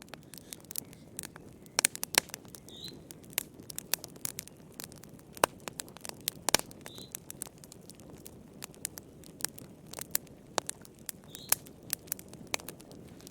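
Wood fire crackling, with irregular sharp pops and snaps over a steady low hiss of burning.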